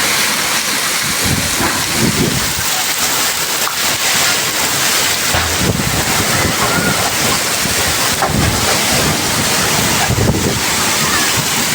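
Heavy rain pouring in a steady loud hiss, with wind gusts buffeting the microphone in irregular low rumbles.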